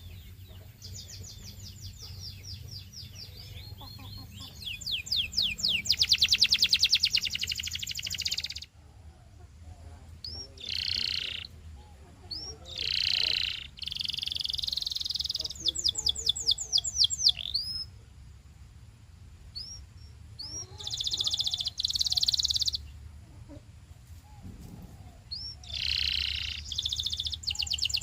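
Canary singing in phrases of fast trilled notes, each lasting a second or a few seconds, broken by short pauses and a few sweeping single notes.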